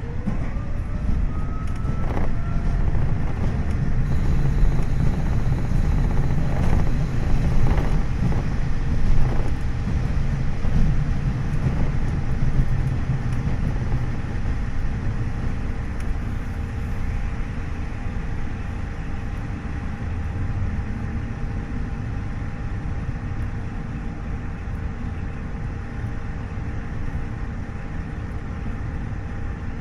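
KiHa 40 series diesel railcar under way, its DMF15HSA diesel engine and wheels on the rails making a steady rumble. A pitch rises over the first couple of seconds, then a steady whine holds.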